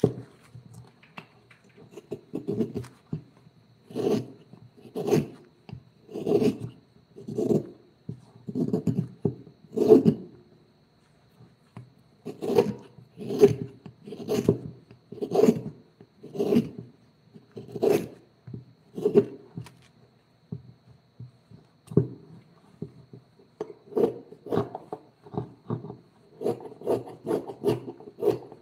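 Wood being abraded by hand in repeated scraping strokes, about one a second, with a short pause before quicker strokes near the end.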